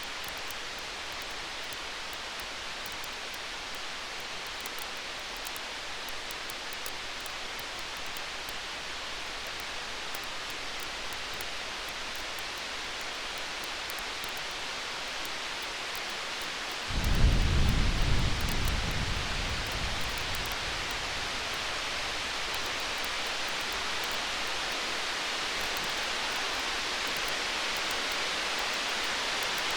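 Steady hiss of a storm ambience with faint crackling of a campfire. About seventeen seconds in, a roll of distant thunder comes in suddenly as a low rumble and fades away over about three seconds.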